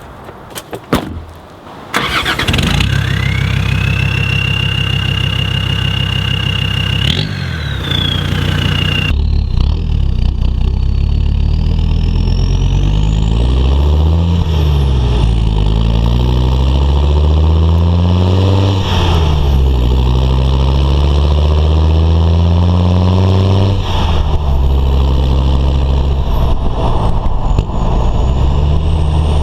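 Land Rover Defender Td5 five-cylinder turbodiesel with its centre silencer replaced by a straight-through pipe, starting up after a couple of knocks, then idling and being revved several times, its pitch rising and falling with each blip. A high whistle rises and falls along with the revs.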